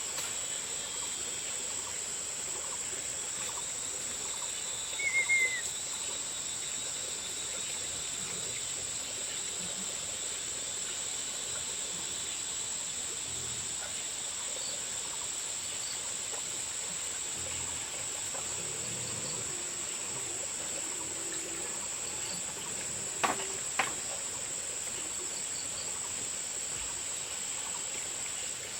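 Insects droning steadily at a high pitch. There is a brief falling bird chirp about five seconds in, and two sharp knocks about half a second apart near the three-quarter mark.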